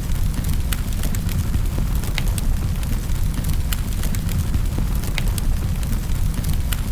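Fireplace fire crackling: irregular sharp snaps and pops, a few each second, over a steady low rumble of the flames.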